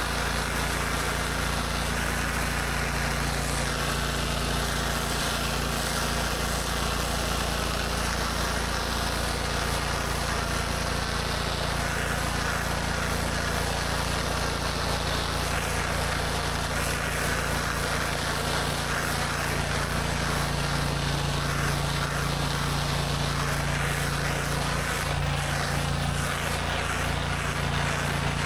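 Gas-engine pressure washer running steadily under load, with the constant hiss of high-pressure water spraying on concrete.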